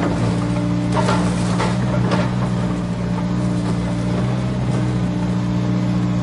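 Remote-control toy excavator running with a steady motor hum, with a few sharp clicks about one and two seconds in.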